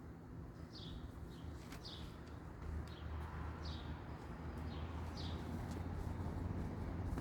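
A small bird repeats short, high, downward-sliding chirps about once a second. A steady low rumble grows louder about halfway through.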